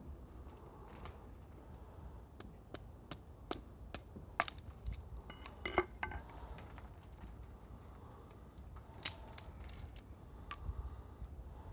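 Campfire crackling: irregular sharp pops and clicks over a low background hiss, with a cluster about four to six seconds in and one loud pop about nine seconds in.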